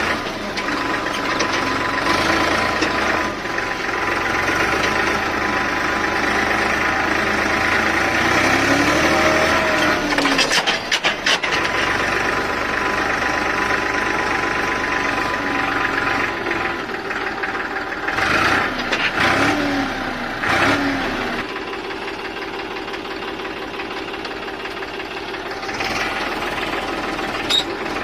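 Small engine of a homemade mini tractor running steadily with a knocking beat, and brief clatters now and then.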